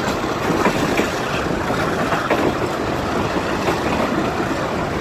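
Pakistan Railways passenger train running along a station platform, heard from an open coach window: a steady rumble of wheels on rails with a few faint clicks.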